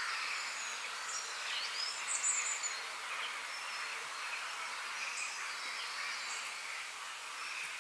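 Several small birds chirping and calling over a steady high hiss of outdoor ambience, with a brief louder burst of high chirps about two seconds in.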